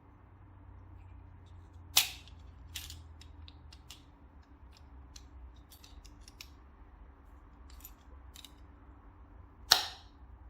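Hard parts of a pocket-hole jig kit being handled: two sharp clacks, one about two seconds in and one near the end, with lighter clicks and taps between.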